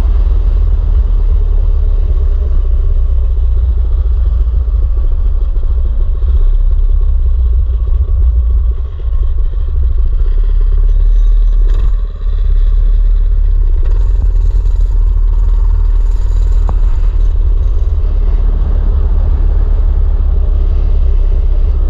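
Mini bike engine running under way, buried in heavy wind buffeting on the microphone; the loudness briefly dips twice.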